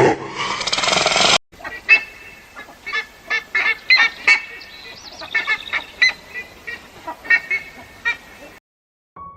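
Waterfowl honking: a quick, uneven series of short nasal calls that runs for about seven seconds and then stops. Before it, a loud rough sound cuts off abruptly about a second and a half in.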